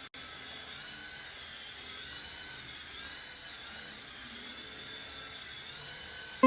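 Small electric motor of a remote-control toy whining steadily at high pitch, its pitch wavering slightly up and down.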